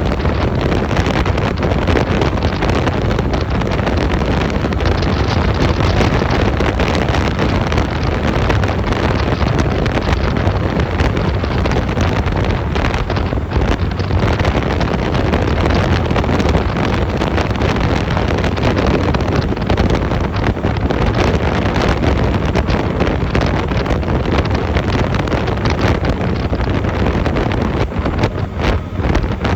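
Steady wind noise buffeting the microphone on a Honda 250cc motorcycle on the move, with the bike's engine running underneath.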